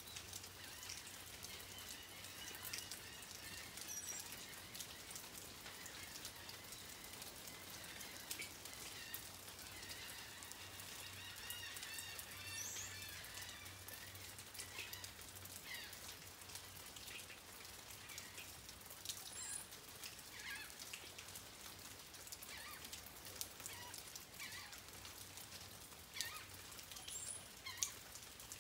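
Steady rain falling, with many single drops ticking close by. Birds call now and then over it: a warbling call early and again around ten seconds in, with a few short high chirps later.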